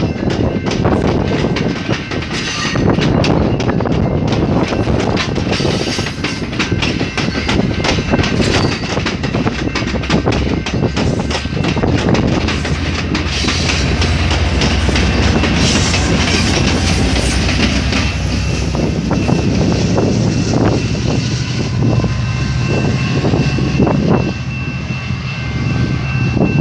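Commuter train passing close by: a loud, steady rumble with rapid clicking of the wheels over the rails and a faint steady high tone. A low drone comes in about ten seconds in, and a thin rising whine in the last ten seconds.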